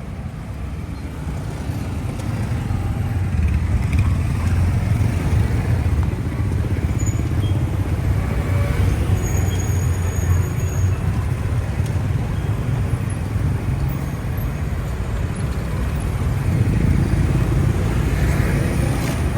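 Motorbike riding through city street traffic: a steady low rumble that grows louder over the first few seconds and then holds.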